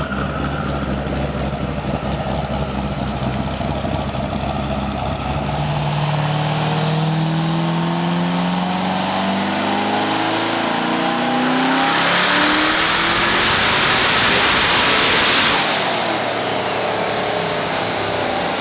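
Twin-turbo Corvette Z06's 7.0 L LS7 V8 making a wide-open-throttle dyno pull with the exhaust in quiet mode. The engine note climbs steadily for several seconds, a high whistle and a loud rush build near the top of the rev range, then the throttle closes abruptly and the revs fall away.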